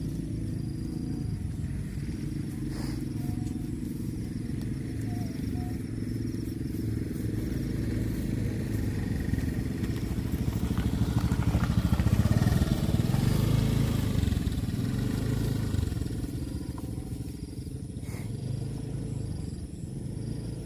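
A low engine-like motor runs steadily, growing louder about eleven seconds in and easing off again a few seconds later.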